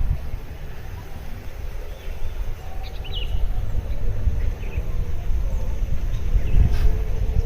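Wind rumbling on the microphone in open country, with a few faint high bird chirps about three seconds in.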